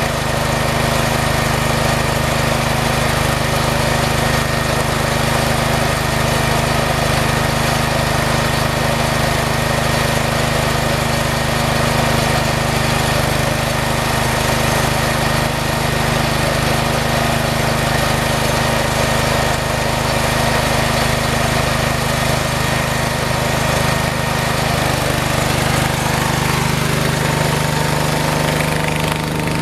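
Small garden tractor engine running steadily at a constant speed, its pitch shifting slightly near the end.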